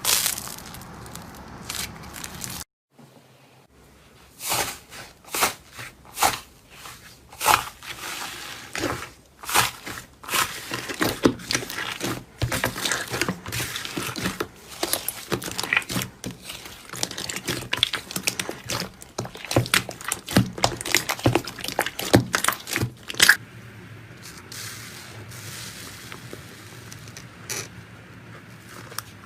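Slime being squeezed and poked by hand: a quick run of short crackles and pops, busiest in the middle and thinning out near the end.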